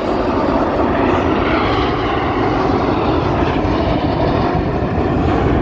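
Red Arrows BAE Hawk T1 jets flying low in display, a steady, loud jet engine noise that holds for the whole stretch.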